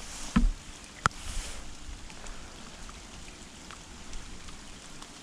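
Steady rush of a river running high after rain, with light raindrop ticks scattered through it. Two sharp knocks come about half a second and a second in.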